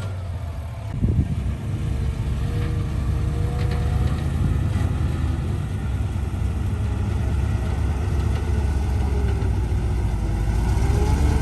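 Heavy diesel engine of earthmoving machinery running steadily, with a single thump about a second in.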